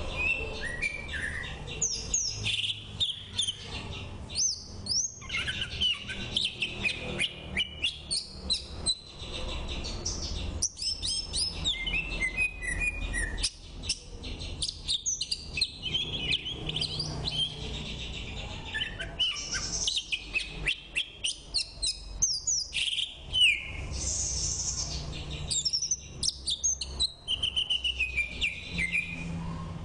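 Oriental magpie-robin (kacer) singing: a long, varied run of quick whistled phrases, sliding notes and sharp clicks, over a low steady hum.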